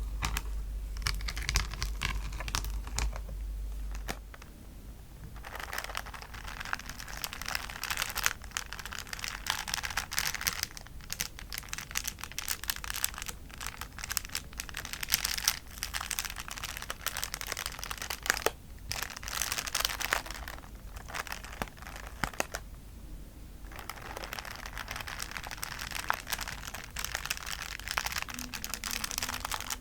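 Plastic bag filled with small beads being squeezed and handled, crinkling, with the beads clicking and shifting inside. During the first few seconds, light tapping on a palette.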